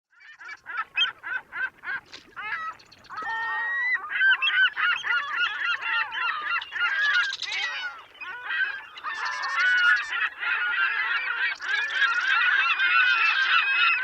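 A flock of waterfowl honking, goose-like: separate calls at first, building about four seconds in to a dense chorus of many birds calling over one another, easing briefly just past halfway before swelling again.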